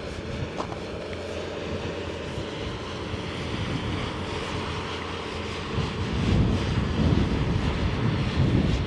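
Steady rushing noise of a passing vehicle, with gusts of wind buffeting the microphone from about six seconds in.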